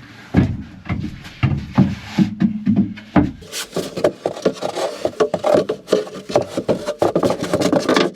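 Wood being handled: a few dull knocks, then from about three seconds in a long stretch of rapid scraping and rubbing, as a wooden countertop piece is slid and worked into place.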